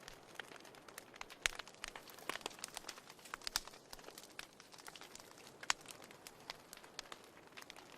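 Wood fire crackling in a fireplace: a low steady hiss under irregular sharp snaps and pops, with a couple of louder pops about one and a half seconds in and near six seconds.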